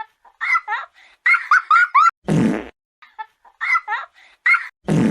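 Cartoon fart sound effect, heard twice, each time after a run of short high-pitched giggles.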